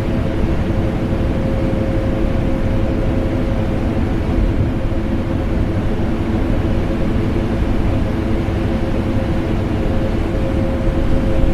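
Vacuum cleaner running continuously, mixed with the steady hum of an air conditioner: an even, loud drone with a thin steady whine.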